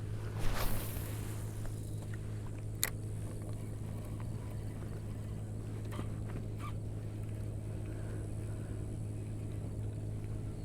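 Kayak trolling motor running with a steady low hum. Near the start there is a short rushing swish, and about three seconds in a single sharp click.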